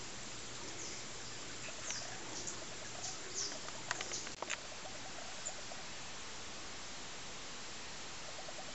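Steady outdoor hiss with a few quick, high, falling bird chirps in the middle, along with two sharp clicks at about the same time.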